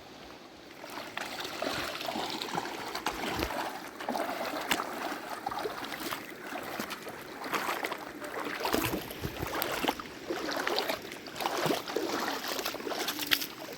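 Water sloshing and splashing unevenly, with scattered small knocks.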